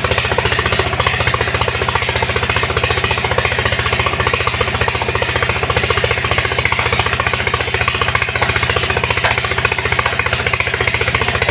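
Engine of a sand-suction pump running steadily at a fast, even beat while it pumps sand and water.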